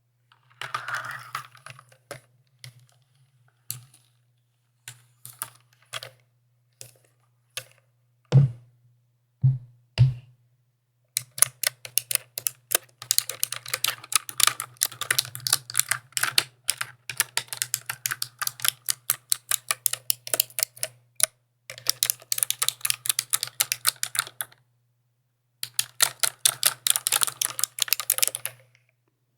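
Mechanical keyboard keys being pressed. About ten seconds of scattered single clacks, with a few heavier, deeper presses near the end of that stretch, then fast continuous typing in runs broken by two short pauses.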